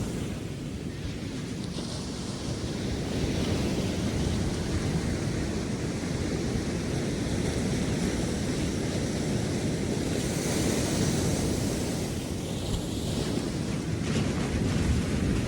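Ocean surf breaking and washing up a sandy beach, a steady rush that swells twice, about ten and fourteen seconds in, with wind rumbling on the microphone.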